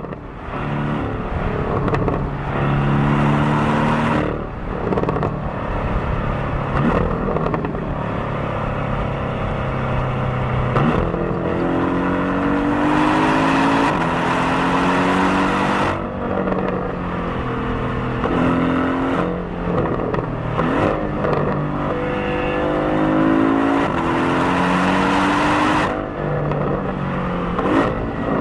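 Porsche 718 Cayman's stock turbocharged flat-four engine, heard as a mix of exhaust and cabin sound, under acceleration. Its pitch climbs through the revs and drops back at several gear changes, with harder-throttle stretches about halfway through and near the end.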